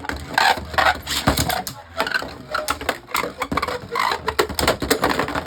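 Beyblade Burst tops, Harmony Pegasus against an opponent, spinning and clashing in a plastic stadium after launch: a fast, irregular run of sharp plastic clacks and knocks as they collide, ending in a burst finish.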